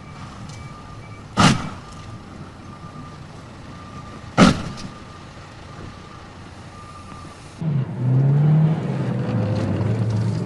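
A repeating electronic beep with two sharp bangs about three seconds apart, then a louder, low, wavering vehicle engine sound from near the end.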